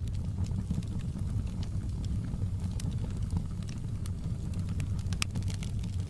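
Wood fire burning in a fireplace: scattered sharp crackles and pops from the burning logs over a steady low rumble of the flames.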